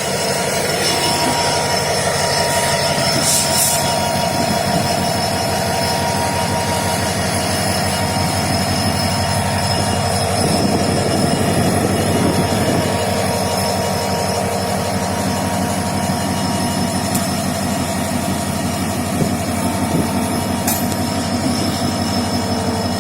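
Indian Railways passenger train running along the track, a steady loud rolling noise of wheels on rails with a faint steady whine over it.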